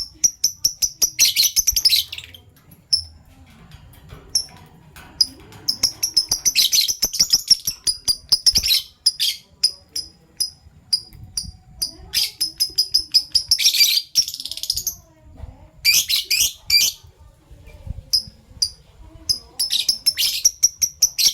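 Fischer's lovebirds chirping: a steady run of sharp, high single chirps broken every few seconds by bursts of rapid, shrill chattering.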